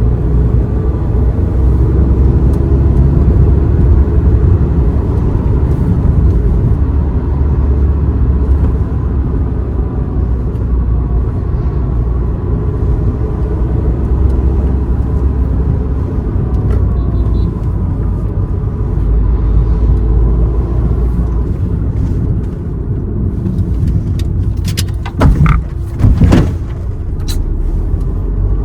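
Car driving, with a steady rumble of engine and road noise and a few loud knocks near the end.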